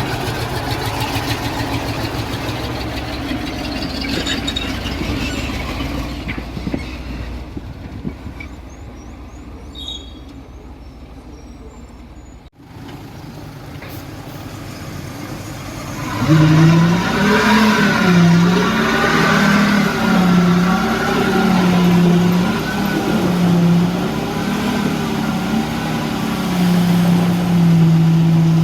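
Diesel engine of heavy construction machinery running steadily, then dropping away. After a sudden break about halfway, a louder engine comes in whose pitch rises and falls every second or two as it works under changing load.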